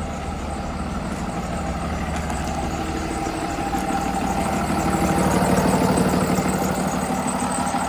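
The Freightliner M2's 6.7-litre Cummins straight-six turbo diesel idling steadily. It grows louder until about five seconds in, then eases slightly.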